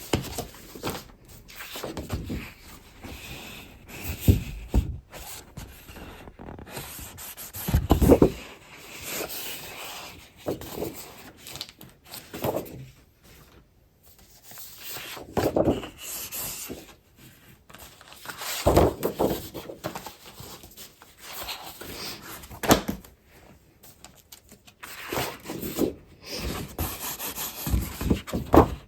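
Paper-crafting supplies being handled: paper and plastic packaging rustling, crinkling and sliding, with a few louder soft knocks.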